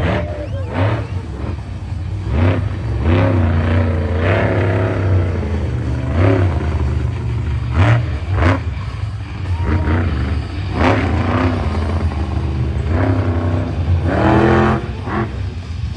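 Monster truck engine running with a steady low rumble, with raised voices and occasional sharp knocks over it.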